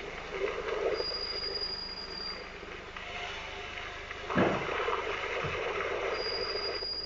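Toyota Corolla Verso's brakes giving a thin, high, steady squeal in two stretches over the running noise of the car, with a brief thud a little past halfway. The squeal comes with pressing the brake pedal after new pads and discs were fitted.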